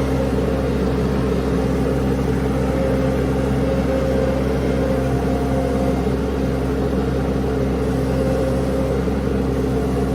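Mini skid steer engine running steadily at a constant speed.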